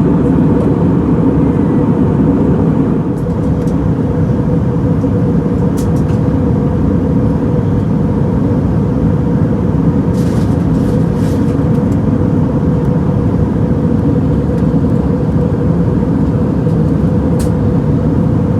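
Steady cabin noise of an Airbus A320neo in descent: a constant rush of airflow and engine drone with a steady hum. There are a few faint ticks.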